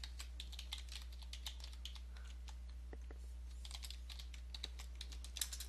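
Computer keyboard typing: faint key clicks in irregular runs while login details are entered, over a steady low hum.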